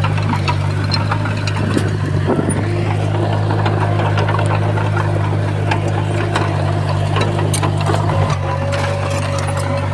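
Heavy earthmoving machine's diesel engine running steadily with a low hum, with frequent metallic clicks and rattles over it.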